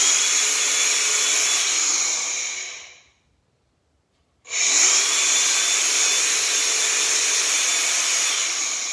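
DeWalt DCG413B brushless 4.5-inch angle grinder run twice with no load. Each time the motor spins up with a rising whine, runs steadily, then brakes to a stop in under a second.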